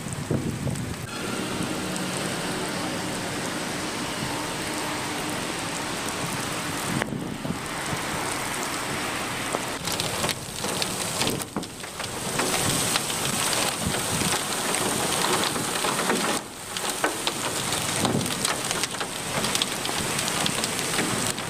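Heavy rain pouring down as a dense, steady hiss, dropping away for a moment a few times.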